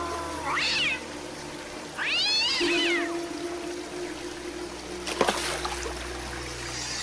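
Two meow-like animal calls, each rising and then falling in pitch, the second longer, over a faint trickle of water. A short sharp knock comes about five seconds in.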